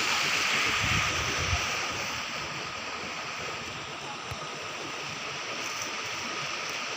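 River water rushing steadily, a little louder in the first two seconds, with a few low thumps around a second in.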